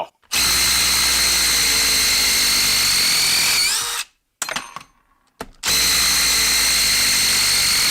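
Cordless brushless impact driver on speed 3 hammering lag screws out of wood in two runs of about three and a half seconds each. Its pitch climbs slightly just before each run stops as the screw frees.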